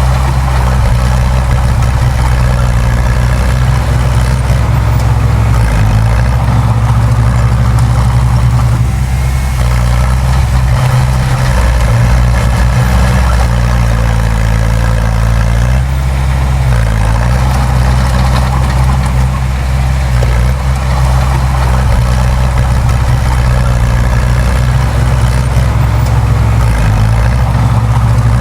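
Diesel engine of heavy earthmoving machinery running steadily under light load, with its low note shifting slightly in pitch now and then.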